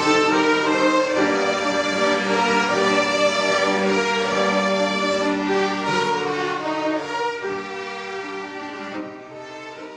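Violin music with long held notes, fading out over the last few seconds.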